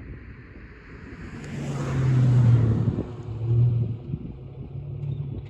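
Holden VY Commodore's 3.8-litre Ecotec V6 running through Redback headers, a high-flow cat, a centre muffler and a straight tailpipe: the exhaust note swells to a loud peak about two seconds in with a rush of noise, rises again briefly, then drops back.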